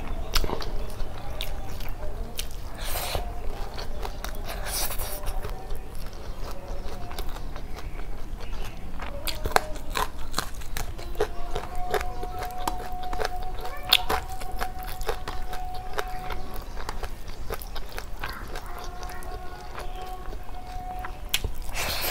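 Close-miked chewing of rice and curry, with many small wet mouth clicks.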